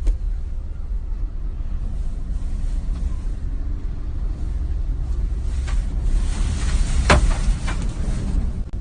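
Storm wind buffeting the microphone with a steady deep rumble. A gust swells from about six seconds in, with a few sharp clatters, the loudest about seven seconds in.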